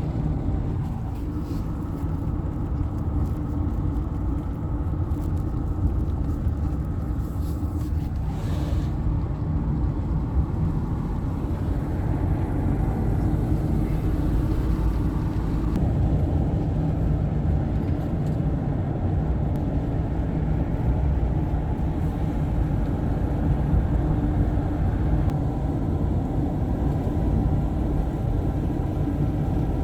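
Car driving at a steady speed: a continuous low engine and road rumble.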